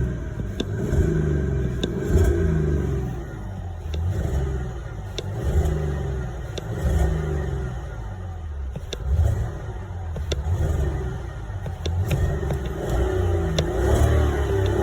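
Car engines revving again and again, each blip rising and falling in pitch about every second and a half, with occasional sharp clicks between the revs.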